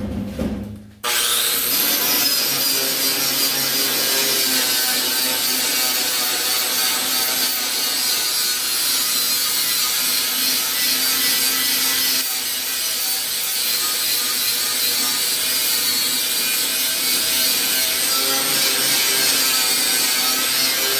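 A power tool spins up about a second in and then runs steadily with a high whine, its bristle disc scrubbing paint and rust off the truck's steel body panel.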